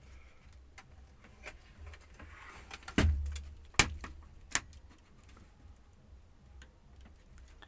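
Sharp clicks and taps of a small screwdriver and plastic laptop parts being handled during disassembly: three louder clicks about three, four and four and a half seconds in, the first with a dull knock, and faint ticks around them.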